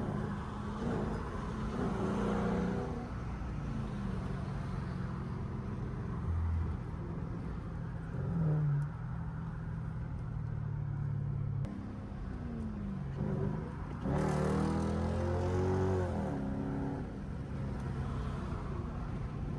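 Straight-piped Dodge Durango exhaust running steadily while driving in traffic. It revs up briefly about halfway through, then pulls louder for a few seconds past the middle.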